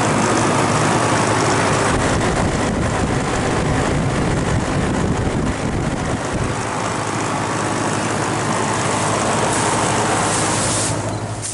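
Outdoor unit of a 1993 Janitrol heat pump running in cooling mode: a steady rush of condenser fan air over the drone of the compressor. It eases off a little near the end.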